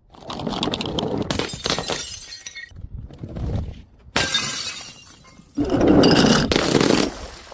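Glass bottles breaking and shattering, several separate crashes one after another, each with a sudden start.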